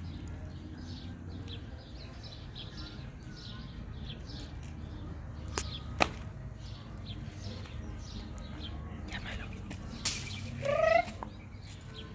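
Small birds chirping faintly and repeatedly in the background, with a sharp click about six seconds in and a short, louder pitched call near the end.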